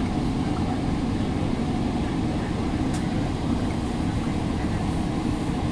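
Steady low rumble inside a GO Transit commuter train coach as the train moves slowly along a station platform, with one brief click about three seconds in.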